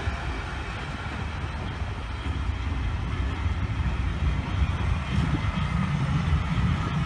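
Railtour passenger coaches rolling past over a level crossing: a steady low rumble of wheels on rail that grows a little louder in the second half.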